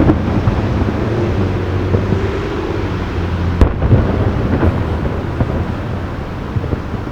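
Aerial fireworks booming over a continuous rolling rumble of echoing bursts, with one sharp loud bang about three and a half seconds in and a few smaller cracks.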